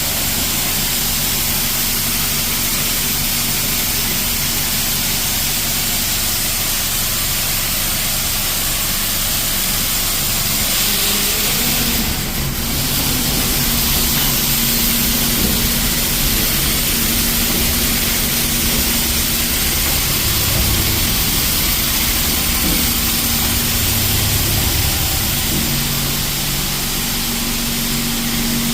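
Mark VII AquaJet XT touchless car wash running: a steady hiss of high-pressure water spraying onto the car over the low hum of the wash's pumps and motors. The hum grows a little stronger about twelve seconds in.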